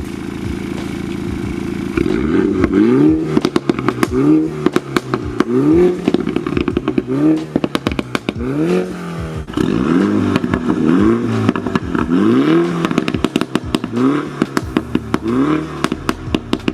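Mini Cooper S turbocharged four-cylinder with a Remus cat-back exhaust. It idles for about two seconds, then is blipped hard about once a second, and the exhaust crackles and pops as each rev falls away.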